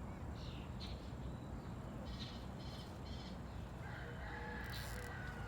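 A rooster crows once, a faint long call held for about a second and a half near the end, over steady outdoor background noise with a couple of short soft rustles earlier.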